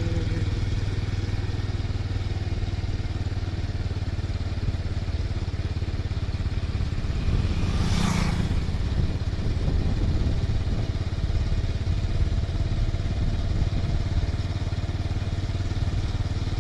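Motorcycle engine running steadily on the move, a low even hum, with one brief louder rush about halfway through.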